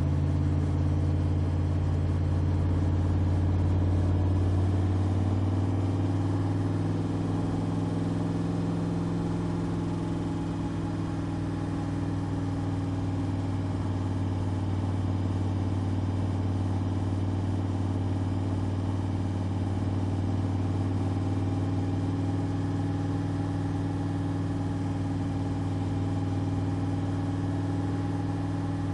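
Backdraft RT3 roadster's VMS 427R crate V8 running steadily; its note drops slightly a few seconds in and then holds even.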